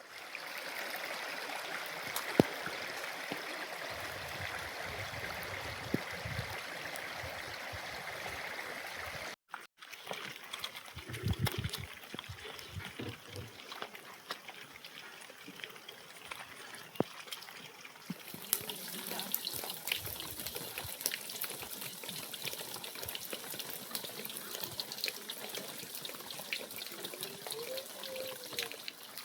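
Water trickling and splashing, with scattered small clicks and knocks. The sound breaks off briefly about nine seconds in and turns hissier in the second half.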